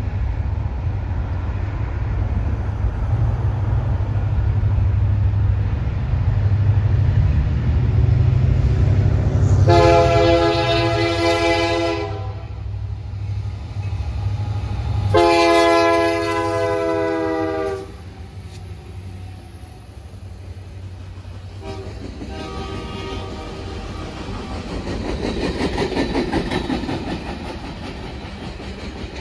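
Union Pacific diesel freight locomotives rumbling as they approach and pass, sounding the air horn in two long blasts. After the locomotives pass, freight cars roll by with their wheels clattering on the rails.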